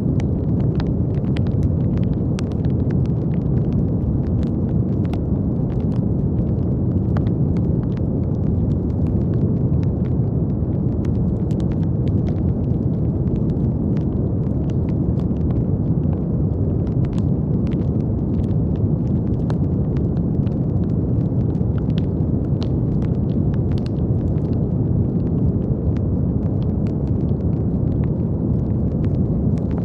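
Steady brown noise: a deep, even rushing hiss weighted to the low end. Faint scattered crackling clicks run through it, several a second.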